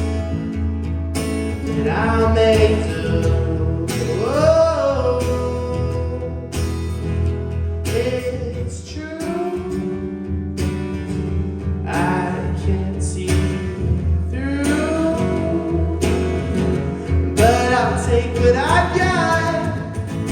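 A song performed live: a singer holds long, gliding phrases over steadily strummed guitar chords.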